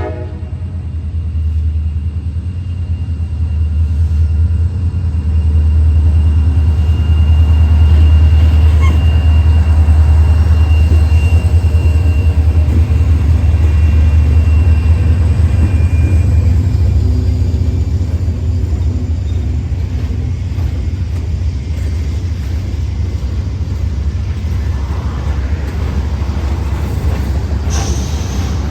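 Freight train passing, a heavy low rumble that builds over the first several seconds and eases off in the second half, with a faint steady high tone above it.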